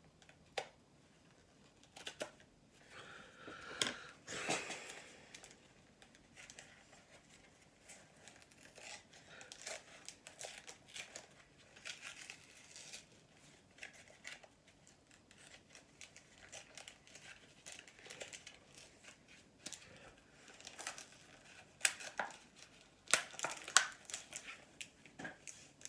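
Hockey card pack wrapper being crinkled and torn open by hand, in scattered bursts with small clicks and taps as the cards are handled.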